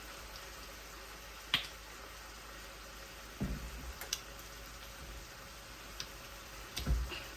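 Faint, steady sizzle of quail stir-frying in a pan. Over it come a sharp click about one and a half seconds in, a few lighter clicks, and two dull low knocks, one midway and one near the end.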